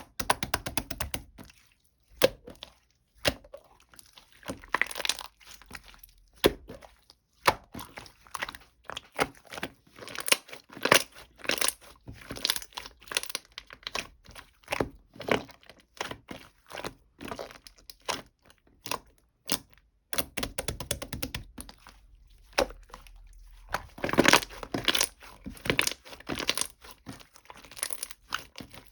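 Close-up handling noise: a string of sharp clicks and taps with crinkling and tearing, densest about five seconds in and again in a louder stretch near the end.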